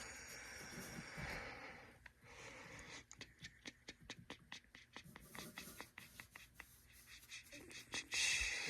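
Handling noise: rustling for about two seconds, then a quick run of light clicks and taps, several a second.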